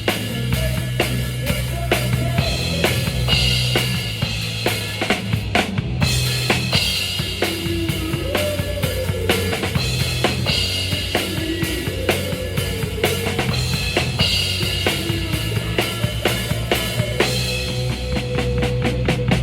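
Live band music: a drum kit keeps a steady beat with kick and snare over a bass line, with a wavering melody above.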